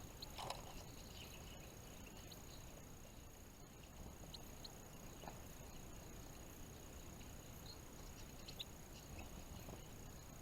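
Faint short high chirps of small finches, scattered a few seconds apart, over a low steady background hiss, with one louder short sound about half a second in.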